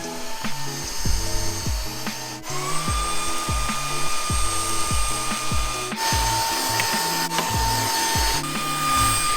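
Cordless stick vacuum cleaner (ILIFE H11) running, its motor giving a steady high whine that jumps in pitch three times, over background music with a steady beat.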